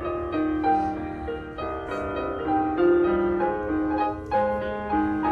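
Piano music: an instrumental interlude of a simple melody of held notes over chords, with no singing.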